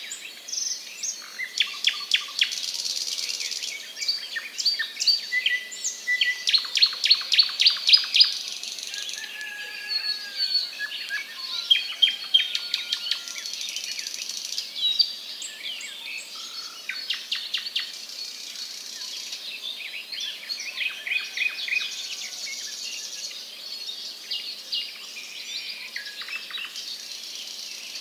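Many small birds chirping and trilling, with rapid runs of sharp, high chirps coming in bouts.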